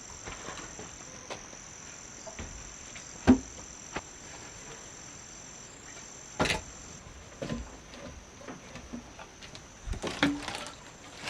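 Steady high-pitched insect drone, with scattered knocks: a sharp one about three seconds in, a louder one past the middle, and several more near the end.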